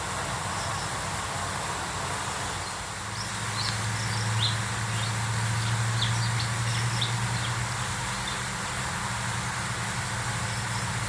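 Small birds giving short, high chirps, a cluster of them in the middle, over a steady hiss and a low engine-like hum that swells and fades.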